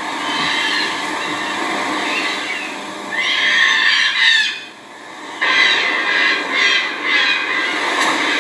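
Rhinoceros hornbill giving loud, harsh squawking calls: one bout about three seconds in, then a run of several calls from about halfway through.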